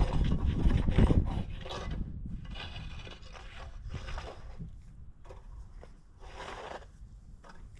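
Snow shovel scraping and pushing snow in several uneven strokes, the loudest in the first two seconds and fainter ones after.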